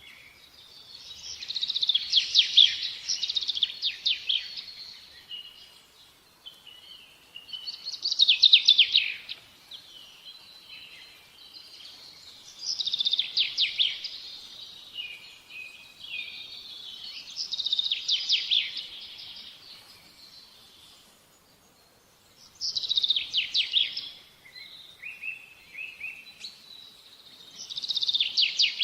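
A songbird singing: a short burst of rapid high notes, repeated about every five seconds, with softer notes between the bursts.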